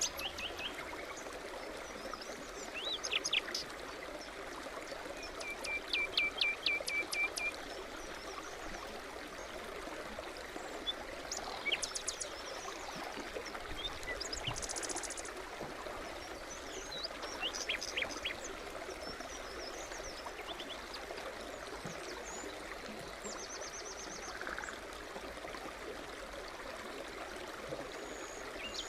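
A stream babbling steadily, with small birds singing and calling here and there over it, including a quick trill of about eight notes.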